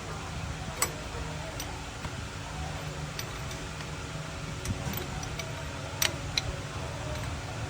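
Scattered sharp metallic clicks and taps, about six over several seconds, over a steady low rumble: tool work on a truck during a clutch repair.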